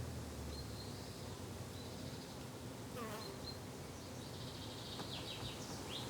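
Summer garden ambience: flying insects buzzing steadily and low, with birds chirping now and then, including a short falling call about three seconds in.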